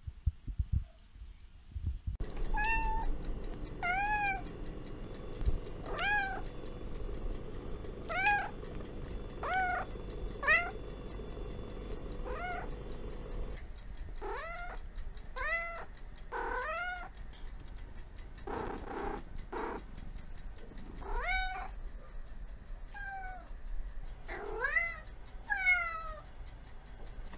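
A domestic cat meowing over and over, starting about two seconds in: short calls every second or two, some arching up and falling, some rising.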